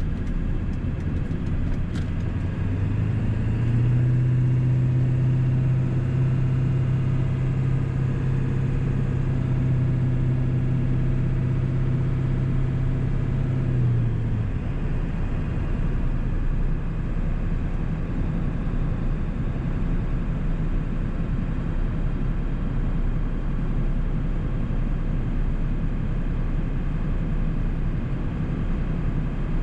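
1997 Ford 7.3 L Powerstroke V8 turbodiesel running on the road. About three seconds in, the engine note rises to a higher steady pitch, holds there until about fourteen seconds in, then drops back to a lower hum for the rest.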